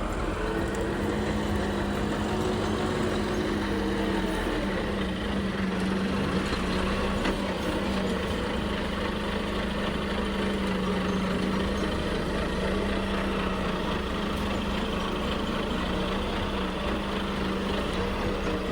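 A machine running steadily: a constant hum with a low drone underneath, unchanged throughout.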